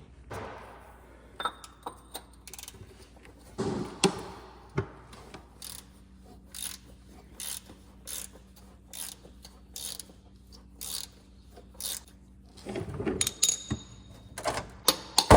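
Socket ratchet clicking in repeated back-strokes, about two clicks a second, while loosening the oil filter housing on a 5th-gen Toyota 4Runner, with a busier stretch of handling noise near the end.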